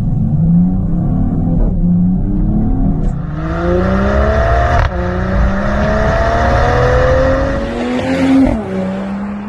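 Mercedes-AMG GT's twin-turbo V8 through a Top Speed Pro1 aftermarket exhaust, accelerating: the exhaust note climbs in pitch, breaks off sharply about five seconds in and climbs again, then drops near the end.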